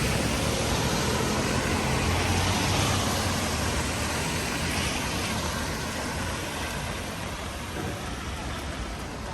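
A motor vehicle that has just passed on a wet street moves away, its engine rumble and road noise fading steadily, over the hiss of steady rain.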